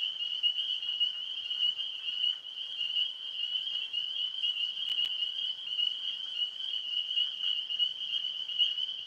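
Steady, high-pitched night chorus of frogs and insects: one continuous shrill trill with no breaks.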